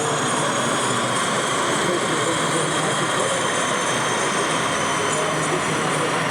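Steady background noise of a model railway exhibition hall, with a model train running on the layout.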